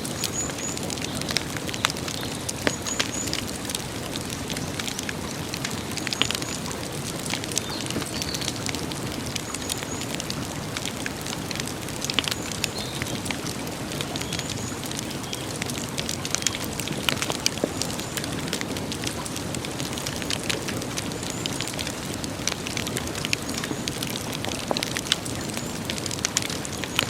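Wood campfire crackling: a steady hiss with frequent sharp, irregular pops.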